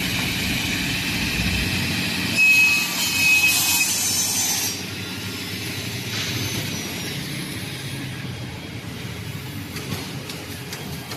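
Sliding table saw running, with a louder, high-pitched hissing whine from about two and a half to nearly five seconds in as the blade cuts through the workpiece, then steadier and quieter.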